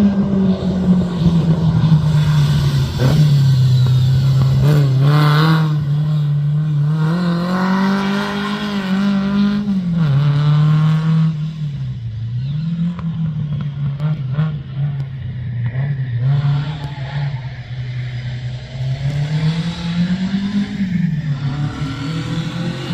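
Rally car engine running hard, its note rising and falling several times as it accelerates and backs off.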